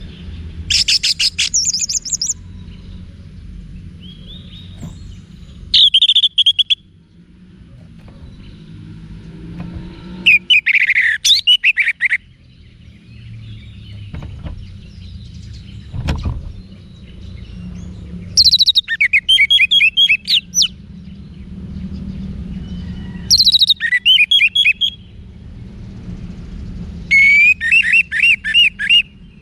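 Orange-headed thrush singing in six short phrases of fast, high notes, with pauses of a few seconds between them, over a faint low hum.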